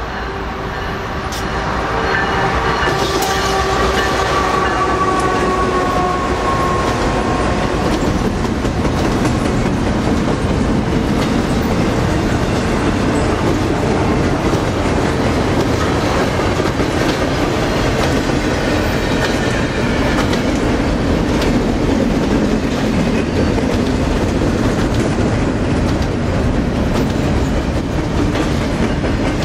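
Freight train passing close by. The lead diesel locomotives' engine tones fall slightly in pitch as they go past in the first several seconds. Then comes a steady rumble and clickety-clack of double-stack container cars' wheels rolling over the rails.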